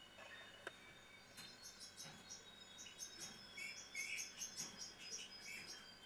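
Small songbirds chirping faintly. Many short, high chirps crowd together from about a second and a half in, with a few lower notes among them.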